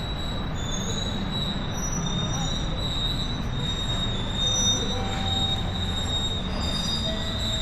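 Train running, with a steady high squeal over a low rumble.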